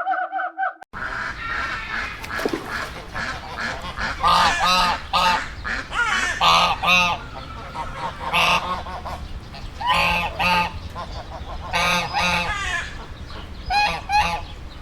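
Geese honking: repeated nasal calls, often in pairs, every couple of seconds, over a steady background hiss.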